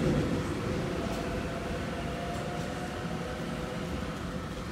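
Rotem Silverliner V electric multiple-unit train pulling away through an underground station, its rumble fading steadily as it recedes into the tunnel, with a faint whine in the first half.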